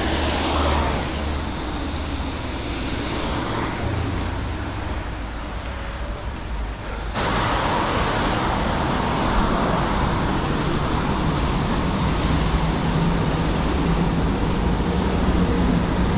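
Road traffic noise, vehicles passing on a nearby road, under a steady hiss that turns suddenly louder about seven seconds in.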